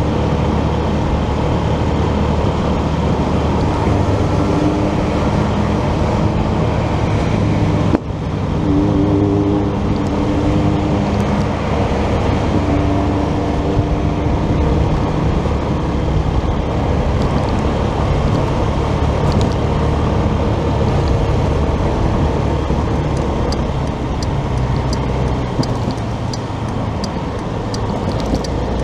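Motorcycle running at riding speed, a steady engine sound mixed with road and traffic noise, with a brief dip about eight seconds in.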